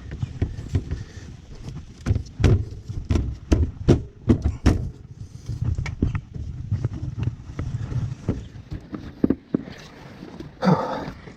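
Work handling noise: an irregular run of sharp clicks and knocks from hands and tools on a generator enclosure, with one louder clunk near the end, over a steady low rumble.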